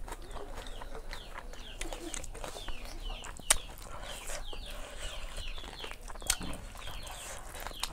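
Birds chirping: many short calls that fall in pitch, several a second, throughout. Two sharp clicks stand out, one midway and one about six seconds in.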